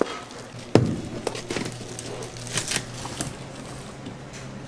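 Kitchen work sounds: a sharp knock, then a few lighter clicks and taps, over a steady low hum.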